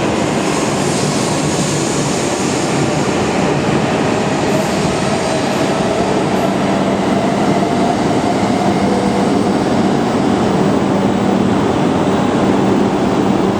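Tohoku Shinkansen train running along the station platform: a loud, steady rush of train noise with a faint whine held through the middle.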